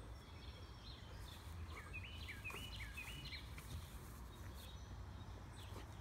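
A small bird chirping a quick run of short, rising notes, about eight of them starting around a second and a half in, over a low steady outdoor rumble.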